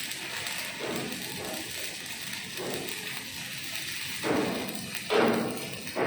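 Steady crackling hiss of an arc welder for about four seconds, stopping abruptly, followed by a few heavy thuds.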